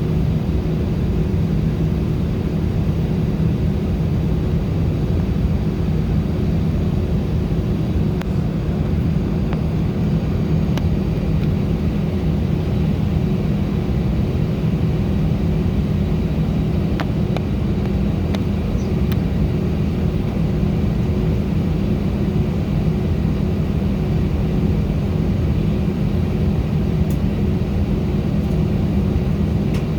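Steady low drone of an Airbus A319's engines and airflow heard inside the passenger cabin, with a constant hum running through it.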